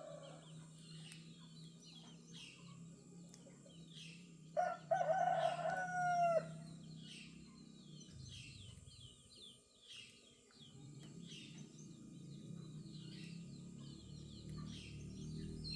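A rooster crows once, loudly, about four and a half seconds in, the call lasting about two seconds. Small birds chirp steadily throughout, with a low steady hum in the first half.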